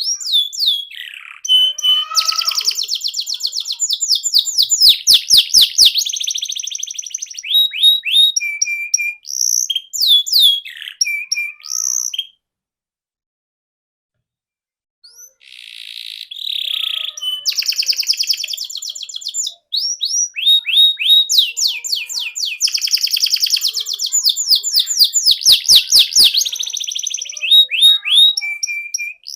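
Canary singing: fast rolling trills of rapidly repeated notes mixed with chirps and sweeping whistles. The song breaks off about twelve seconds in for about three seconds of silence, then resumes.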